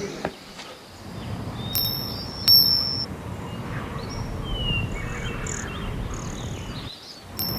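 Small bells ringing: two clear, high-pitched strikes about two seconds in, the second the loudest sound here, and two more near the end, with birds chirping in between.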